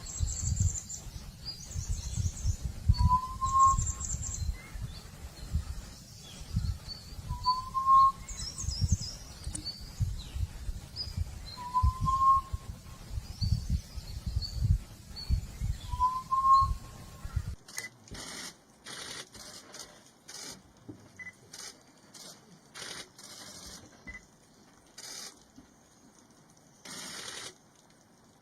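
A forest quail's call: a short, rising whistle repeated about every four seconds, with higher chirps from other birds over a low rumble. About two-thirds of the way through, this gives way to a series of short, scratchy rasping bursts.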